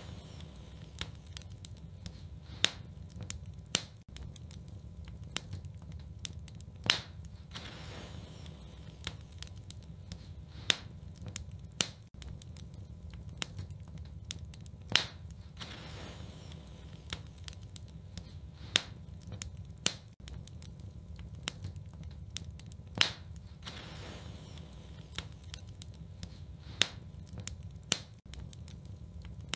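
Wood fire burning in a fireplace: scattered crackles and sharp pops over a low, steady rumble of flames, with a louder pop about every four seconds.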